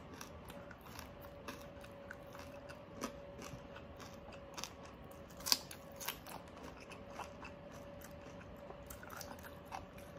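Close-up chewing of crispy fried pork knuckle and fresh cucumber: soft wet mouth clicks and scattered crunches, with one sharper crunch about halfway through.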